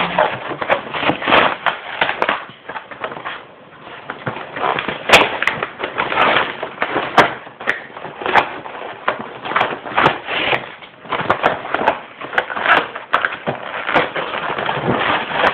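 Packaging being handled and pulled open by hand: irregular crackling and rustling with sharp snaps, the loudest snap about five seconds in.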